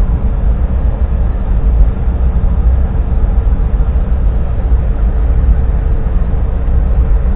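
Heavy construction machinery running: a loud, steady low rumble with a faint steady hum above it.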